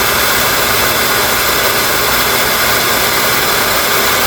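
Hair dryer running steadily, used as a makeshift air pump to blow air into an inflatable pool, which is slowly inflating.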